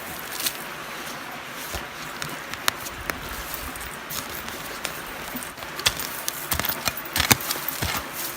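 Scattered knocks, crunches and clicks of outdoor handwork over a steady background hiss, growing busier in the last few seconds.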